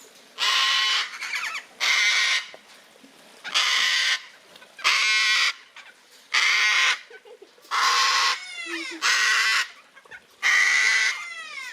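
Gang-gang cockatoo giving a series of loud, harsh, creaky screeches, about eight in all, one roughly every second and a half. A few of the calls trail off in falling whistles.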